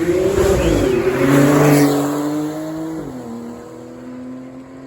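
Car engine revving hard under acceleration, loudest in the first two seconds; about three seconds in the pitch drops suddenly and it runs on at a steady lower pitch.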